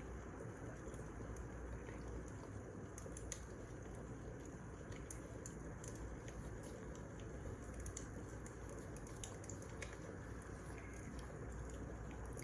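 Wood fire burning: a steady low rush with many small irregular crackles and pops from the burning logs.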